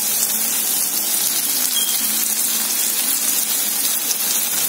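Steady sizzle of cut okra frying in oil in a pan.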